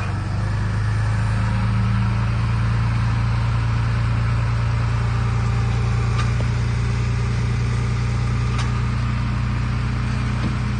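Diesel engine of heavy earthmoving machinery running steadily at a constant speed, a deep even hum.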